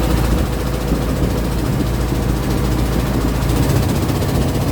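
A long-tail boat's engine running steadily under way, a low hum with an even rushing noise over it.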